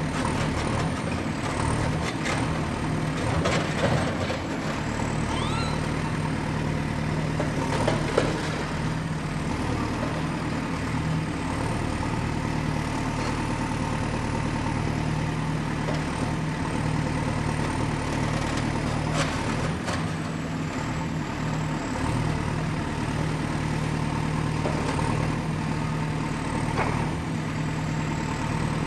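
Excavator's diesel engine running steadily under work, with scattered clanks and knocks from the digging equipment, the loudest about 4 and 8 seconds in, and a few brief squeaks.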